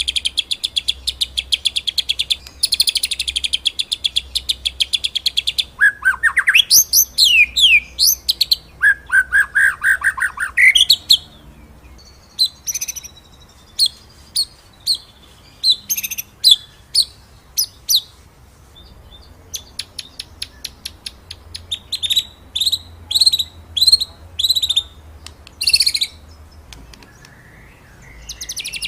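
Recorded white-rumped shama (murai batu) song: a fast rattling trill, then loud sweeping whistled phrases, then a string of sharp separate notes and quick bursts.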